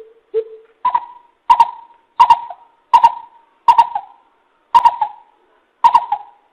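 Coucal calling a series of hollow hoots, about one and a half a second. The first two notes are low, then the call steps up in pitch and repeats a higher note, each with a sharp click at its start.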